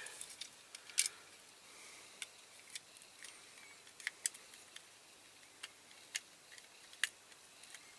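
Faint, scattered light clicks and taps of a die-cast metal toy car being handled, with no drill running.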